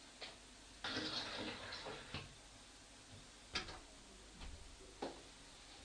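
Faint, scattered knocks and clicks around a room, with about a second of rustling noise starting about a second in.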